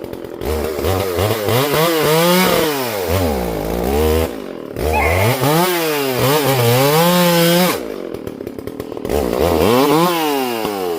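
Two-stroke chainsaw revving up to full throttle and cutting three times, its engine note sagging under load in the cut and recovering, then dropping back to idle between cuts.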